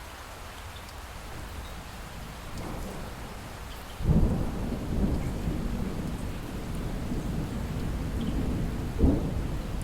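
Light rain falling steadily. About four seconds in, distant thunder breaks in suddenly as a low rumble that rolls on, with a louder crack near the end.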